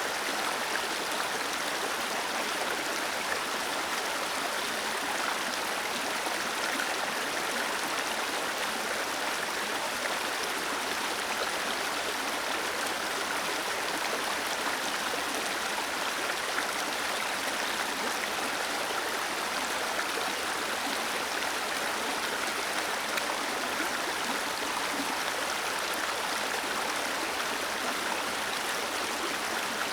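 Small waterfall cascading, a steady even rush of falling and splashing water.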